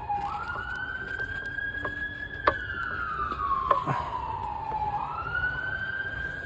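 Emergency vehicle siren wailing in the background: its pitch rises quickly, falls slowly over about five seconds, then rises again near the end. A few sharp clicks sound over it.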